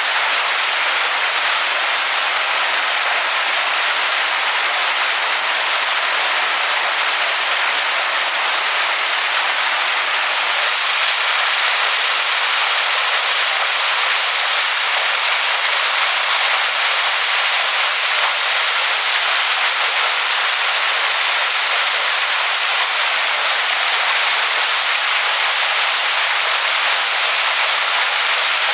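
Waterfall pouring onto rocks: a steady, loud hiss of falling water, bright and high, with little low rumble.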